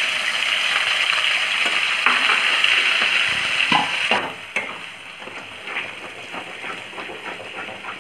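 Onion paste sizzling in hot oil in a pan as it is stirred with a spoon. The sizzle is loud at first, then drops suddenly to a quieter sizzle about four seconds in.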